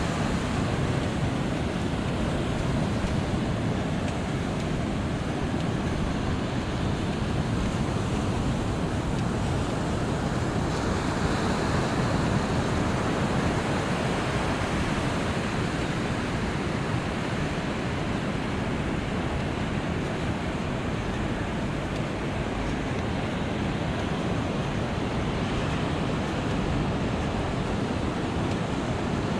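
Pacific Ocean surf breaking and washing up the beach in a steady, unbroken rush, with wind buffeting the microphone.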